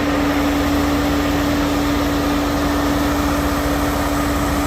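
Water tanker truck's engine running steadily, a constant hum over a fast low rumble.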